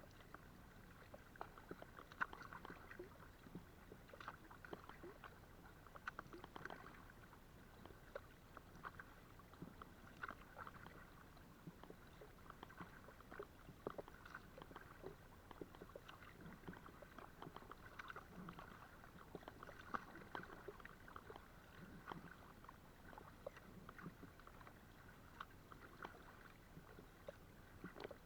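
Faint water sounds of a kayak being paddled: irregular small splashes, drips and light ticks from the paddle blades and the water along the hull, heard from a camera mounted on the kayak.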